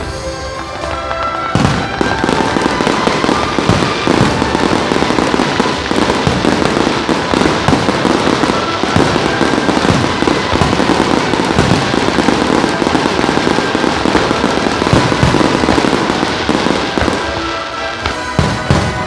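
Fireworks display going off in a dense, continuous barrage of rapid cracks and reports, thinning out near the end, with the show's music playing underneath.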